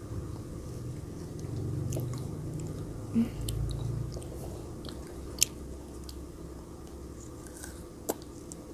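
A child chewing frozen grapes close to the microphone, with a few sharp crunches of the icy fruit.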